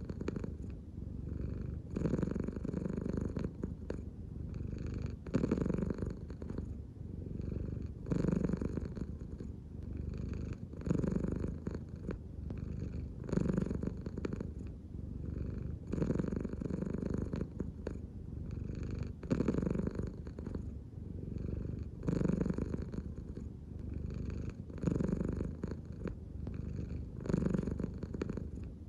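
American Shorthair cat purring close up, the low purr swelling and easing in slow, even cycles about every two and a half to three seconds as she breathes in and out.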